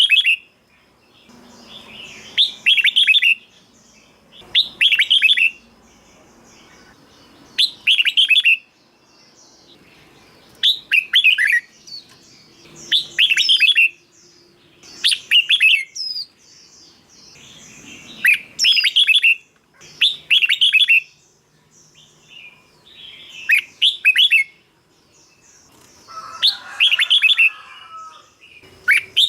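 Red-whiskered bulbul singing: short, bright warbled phrases repeated about every two to three seconds, around a dozen in all.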